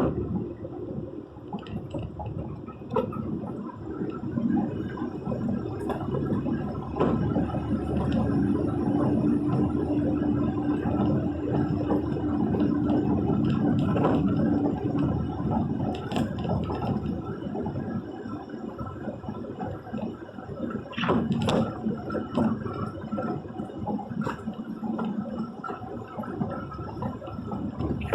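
Heavy rain, a dense patter of drops over a steady low rumble, with a few sharper knocks about two-thirds of the way in.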